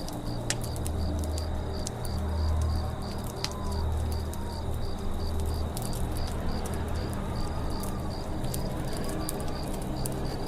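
Campfire crackling with scattered sharp pops, over forest ambience: an insect chirping in an even, fast rhythm and birds calling.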